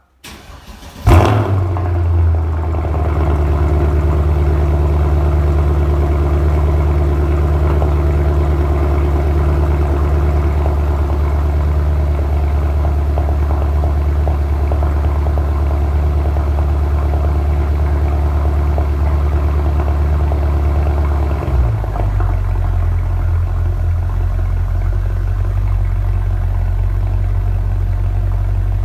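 Mercedes-Benz W221 S63 AMG's 6.2-litre V8 cold-starting through an exhaust with the resonator deleted: a brief crank, then it catches with a loud flare about a second in and settles into a steady high cold idle. About twenty seconds later the idle drops to a lower, deeper note.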